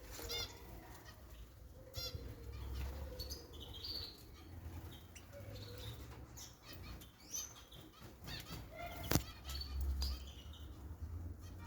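Small cage birds bathing: fluttering and flapping their wings in the water, with short chirps between the flurries and a sharp knock about nine seconds in.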